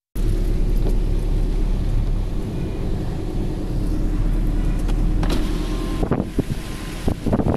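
Loud, steady rushing noise with a heavy low rumble, and wind gusting on the microphone over the last couple of seconds.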